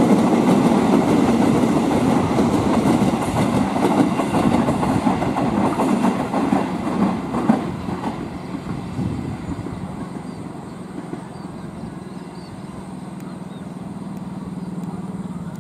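Passenger train rolling along the track, loud and dense for the first eight seconds or so, then fading away as it moves off, leaving a steady low hum.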